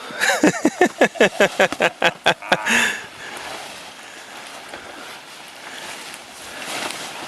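A person laughing in a fast run of about a dozen short pulses for nearly three seconds, ending with a breath. After that, only steady low outdoor background noise.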